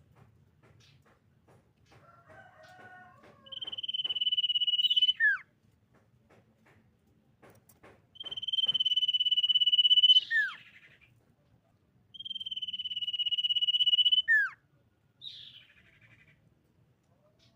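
Common iora singing: three long, level whistles, each held for about two seconds and ending in a quick drop in pitch, with softer chattering notes between them.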